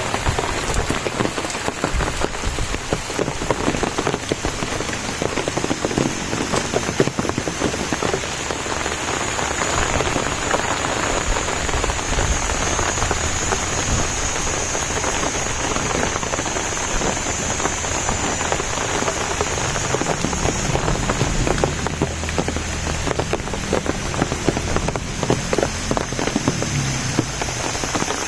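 Steady rain falling and pattering on surfaces, with many small drops heard. A thin, steady high whine runs faintly above it.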